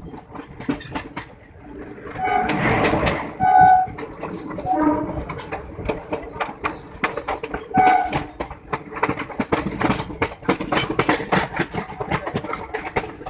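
Passing passenger train with its wheels clattering over the rail joints. Several short locomotive horn blasts sound in the first eight seconds, and the clatter grows denser near the end.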